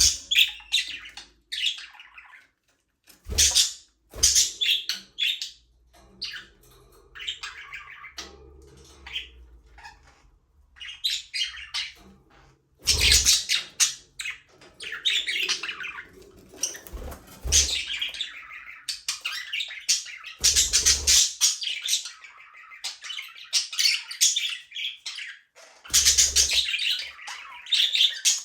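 Budgerigars chirping and chattering, a busy, irregular run of high warbling calls with short pauses, plus a few brief low thumps.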